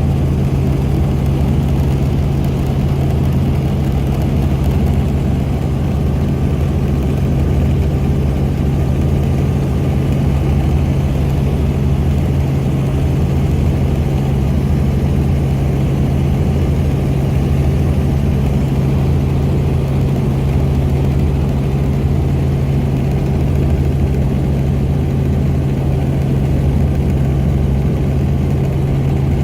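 Helicopter engine and rotor noise heard from aboard in flight: a loud, steady low drone with an unchanging hum.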